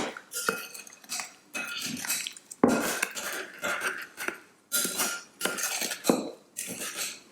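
A utensil stirring a thick mix of nuts, sugar and melted butter in a bowl: repeated scraping strokes with clinks against the bowl, about one every half second.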